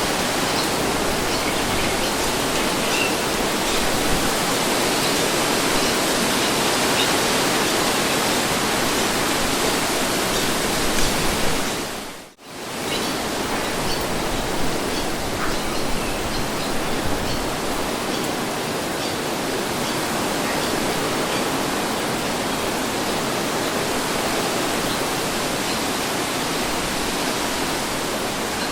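Steady wind noise, an even rushing hiss with small gusts, that dips briefly almost to nothing and comes straight back about twelve seconds in.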